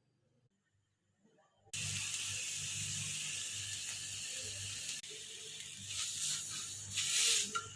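A steady hiss that starts suddenly about two seconds in, with a low hum beneath it and two louder swells near the end.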